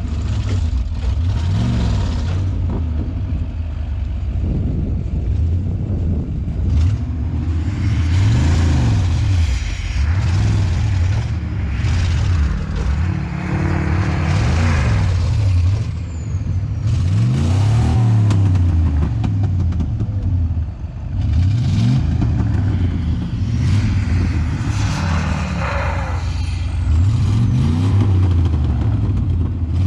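Truck engine revving up and down over and over under hard load as it pulls against a truck stuck in snow, the pitch climbing and dropping about every two seconds.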